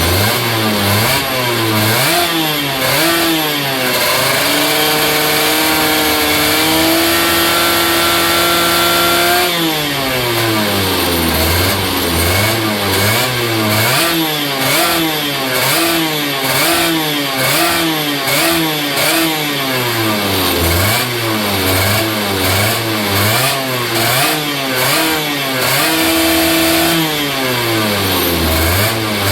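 Minsk (MMVZ) single-cylinder two-stroke kart engine, its ignition advanced earlier than 2.5 mm before top dead centre, being revved. About four seconds in it is held at high revs for some five seconds, the pitch creeping slowly upward before dropping back, then it is blipped repeatedly, roughly once a second. It picks up revs eagerly but hangs around 10,500 rpm, climbing further only slowly when the throttle is held.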